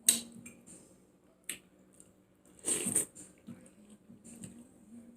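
Close-miked eating sounds of a person chewing a mouthful of stew with chicken and fish: a sharp mouth smack at the start, a smaller one about a second and a half in, and a longer noisy burst of chewing about three seconds in.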